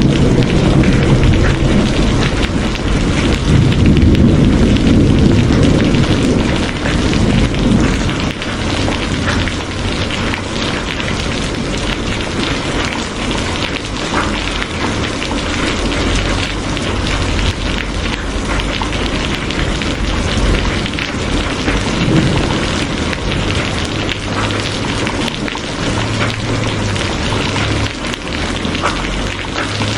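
Steady rain falling, a dense patter of drops, with a low rumble through the first several seconds.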